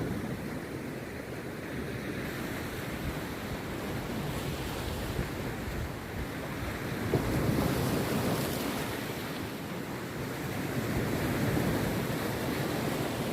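Rough sea waves breaking on a beach: a steady wash of surf that swells louder about seven seconds in and again near the end.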